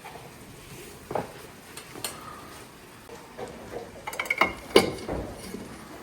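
Kitchen clatter: utensils knocking against pots and dishes, a few separate knocks and then a quick cluster of them near the end.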